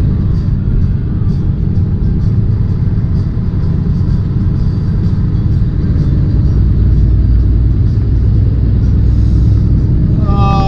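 Tractor-trailer's diesel engine and road noise droning steadily inside the cab at highway speed, getting a little louder about halfway through. A voice begins right at the end.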